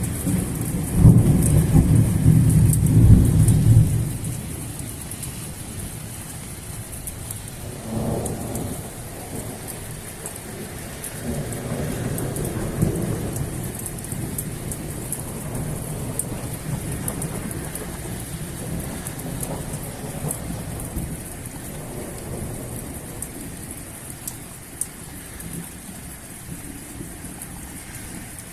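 Heavy downpour with thunder: a loud rolling rumble of thunder in the first four seconds, then fainter rumbles about eight and twelve seconds in, over the steady hiss of rain.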